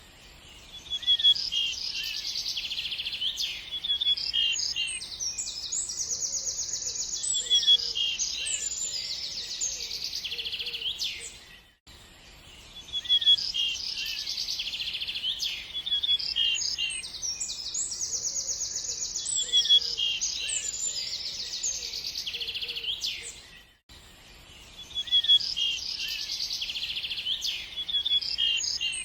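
Songbirds chirping and trilling busily: high, rapid twitters and trills. The same stretch of birdsong repeats about every twelve seconds, with a short dip between repeats.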